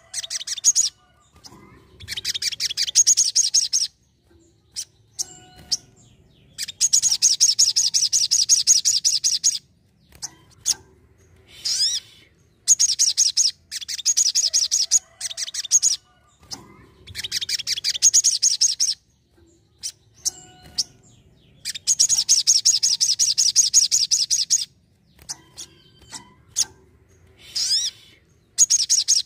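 A sogon sunbird singing: bursts of fast, high-pitched trilling about two to three seconds long, repeated over and over with short pauses between them and a few short chips in the gaps.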